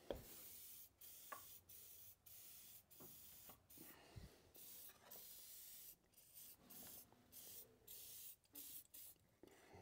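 Faint, short hissing and rubbing strokes with a few light clicks: cleaning work on the parts of an old Craftsman radial arm saw.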